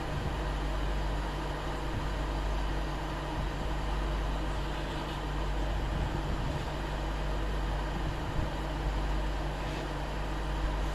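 Steady rumble and hiss of a moving vehicle, with no breaks or sudden events.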